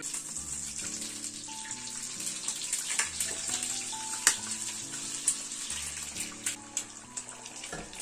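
Water running steadily from a tap, switched on at the start, with a few sharp knocks and clinks. Soft background music with slow bass notes plays underneath.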